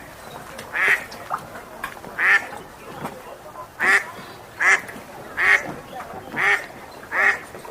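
A duck quacking: about seven loud, short quacks, roughly one a second, coming a little faster in the second half.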